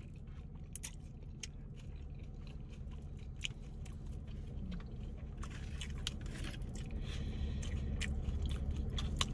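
Close-miked chewing of a mouthful of salad bowl, with small sharp mouth clicks and a crisper, louder stretch of chewing from about five and a half seconds in.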